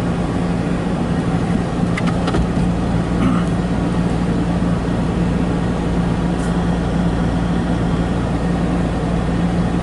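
Car running with a steady hum.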